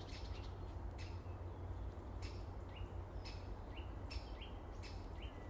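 A bird calling with sharp, short 'chip' notes repeated about once a second, each followed by a brief higher tone; the walker takes it for a woodpecker that sounds much like a blackbird. A steady low rumble lies underneath.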